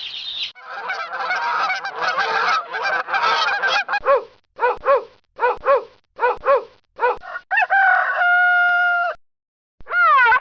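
Geese honking: first a dense clamour of many overlapping calls, then about six separate honks spaced about a second apart, then one long held honk.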